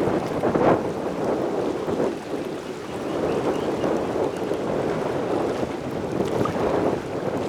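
Outdoor wind rushing over the microphone with the wash of water, a rough, rising-and-falling noise with no engine tone standing out.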